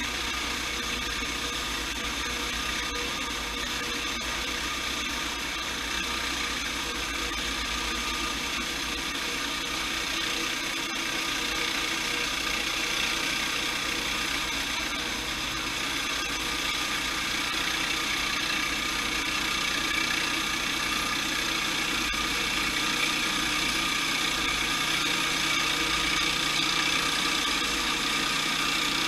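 Sawmill running steadily, its engine and saw making a constant mechanical hum, growing slightly louder near the end.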